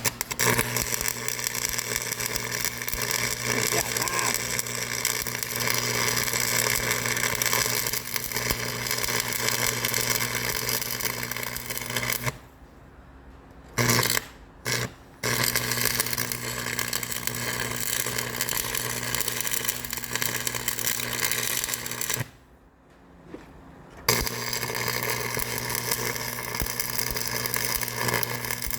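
Stick (arc) welding: the arc crackles and buzzes with a steady mains hum, breaks off about twelve seconds in, strikes up in three short bursts, then runs again, with another pause of about two seconds near the end.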